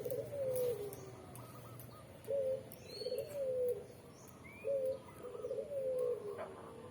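A dove cooing: low, mellow coo phrases repeated about every two seconds, with a few faint high chirps from other birds.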